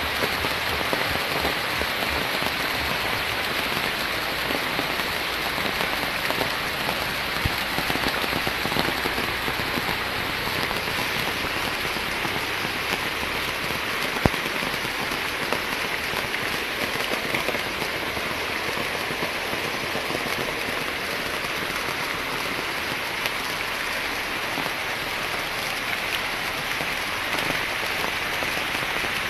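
Steady rain falling on leaves and soil, an even hiss with an occasional sharp tick, the clearest about fourteen seconds in.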